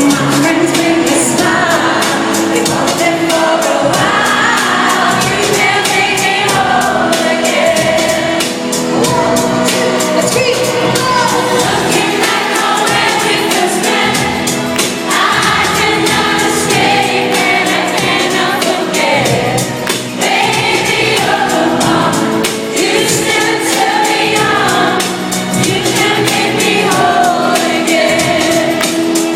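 Live pop music in an arena: a female vocal group singing over a backing track with a steady beat, the voices massed and choir-like.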